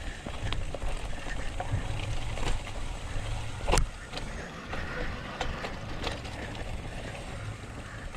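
Mountain bike rolling down a dirt trail: a low rumble with scattered rattles and clicks, and one sharp clack about four seconds in.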